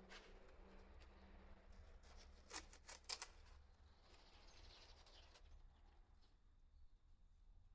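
Faint handling sounds of masking material: soft rustling, a quick cluster of sharp crackling snaps about two and a half to three seconds in, then a short hissing rustle, as masking tape and covering sheet are pulled and pressed into place.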